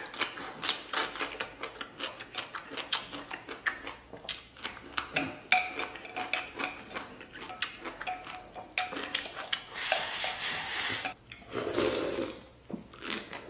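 Close-miked eating: quick wet chewing and mouth clicks, with utensils clinking against a bowl, a few clinks ringing briefly. Near the end there is a longer, denser stretch of chewing noise.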